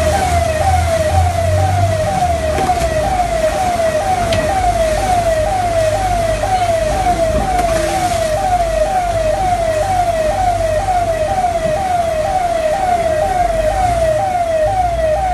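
Electronic siren sounding a loud, repeating falling tone about twice a second, steady throughout, over a low rumble.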